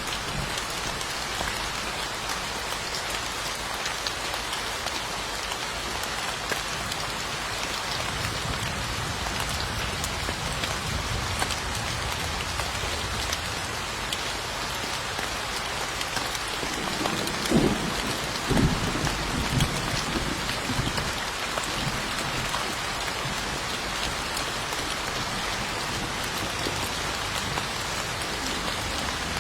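Steady rain falling and pattering on surfaces. A little past halfway, a low rumble of thunder rolls for a few seconds.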